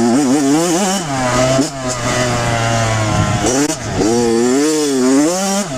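Kawasaki KX100 dirt bike's two-stroke single-cylinder engine revving up and down while being ridden, the pitch rising and falling several times as the throttle is worked.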